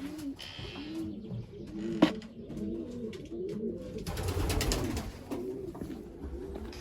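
Several racing pigeons cooing over and over at the loft, in low rising-and-falling coos. A single sharp click sounds about two seconds in.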